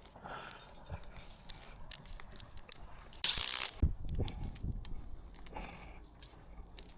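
Work handling noise: scattered small clicks and knocks, with a short loud scraping hiss a little past three seconds in, then a thump.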